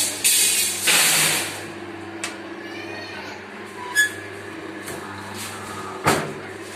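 A machine running with a steady low hum, with loud hissing bursts over the first second or so and again about six seconds in, and a few sharp clicks between.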